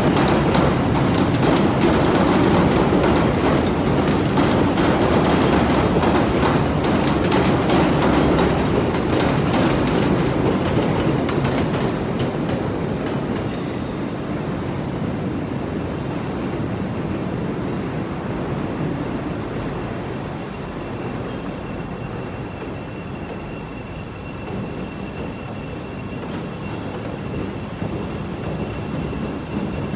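CTA 'L' train's steel wheels clattering over the elevated track's joints and switches, loudest in the first dozen seconds and then fading as it moves away. A faint, thin high wheel squeal holds through the last several seconds.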